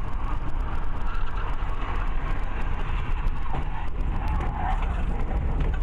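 Steady low rumble of a moving car's engine and tyres, heard from inside the car through a dash cam's microphone.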